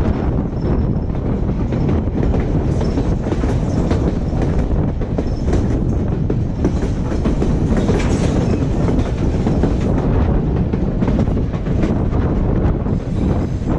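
Train rolling along the track with a steady loud rumble and wheels clattering over the rails.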